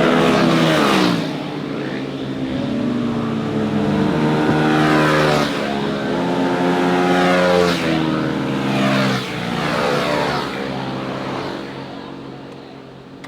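Motorcycles riding past on a winding mountain road, their engines revving up and dropping back several times as they shift gears. The engine sound fades away near the end.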